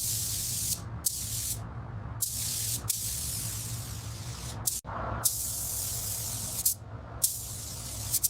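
Compressed-air spray gun hissing in about seven short bursts, starting and stopping sharply with brief pauses between, over a steady low hum.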